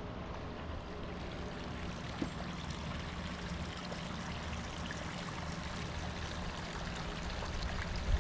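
Steady rush of running water, with a single faint click about two seconds in.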